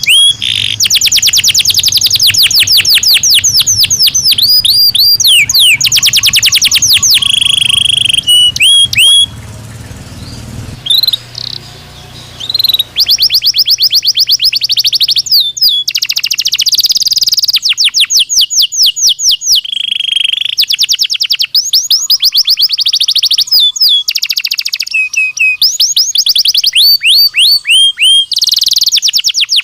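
Belgian canary singing: loud, rapid trills of repeated notes and held whistles, with a brief quieter pause about a third of the way in.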